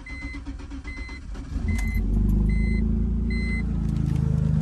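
BMW E46 wagon engine being started after a fuel rail refit: it cranks and catches about two seconds in, then settles into a steady idle. A warning chime beeps evenly, about once every 0.8 seconds, until shortly before the end.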